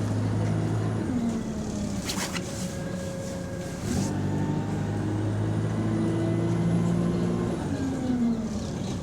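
Bus engine running under load, falling in pitch about a second in, picking up again around four seconds and falling once more near the end, with a short hiss about two seconds in. The bus has a small exhaust leak, and its gearbox is in limp mode without kickdown.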